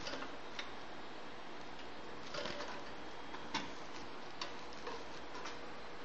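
A goldfinch × canary hybrid moving about its wire cage: about half a dozen short, sharp ticks and brief chirp-like notes at irregular moments, over a steady hiss.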